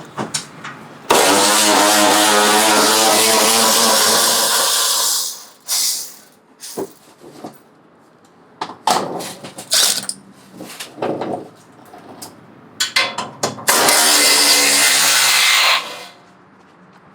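A power tool run in two bursts of a few seconds each, starting and stopping abruptly, with knocks and clatter of work between them.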